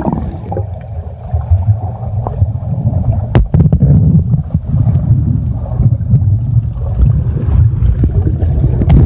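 Muffled low rumble of water and wind moving against the microphone, with a few faint knocks.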